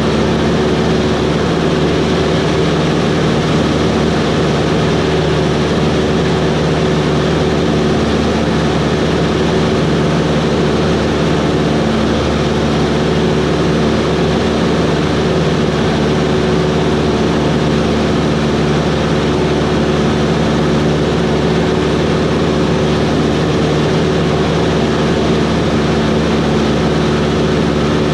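Cessna 140's light-aircraft piston engine and propeller running steadily, an even drone with no change in pitch.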